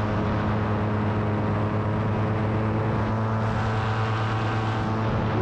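Paramotor engine and propeller running steadily in flight, a constant even drone.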